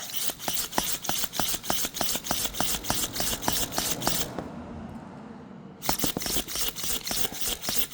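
Hand pump of a cooling-system pressure tester being worked to pressurise the engine's cooling system to about 9 psi so that it shows its coolant leaks. It gives a fast run of sharp clicks, about six a second, that pauses for about a second and a half past the middle and then starts again.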